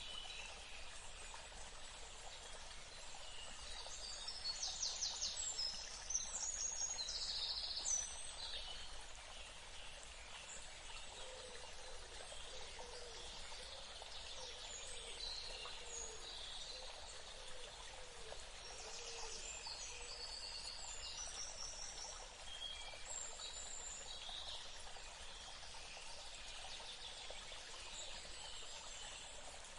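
Forest ambience: many birds chirping and trilling over a steady hiss, busiest in two spells, with a run of lower calls in the middle.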